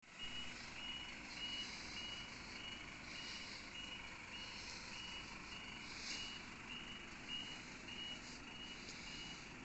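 A reversing alarm beeping steadily at one pitch, about two short beeps a second, over a low engine rumble: a bus backing up.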